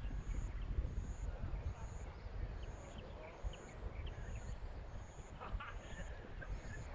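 Wind rumbling on the microphone, with faint distant voices and a faint, high, evenly repeating chirp about twice a second.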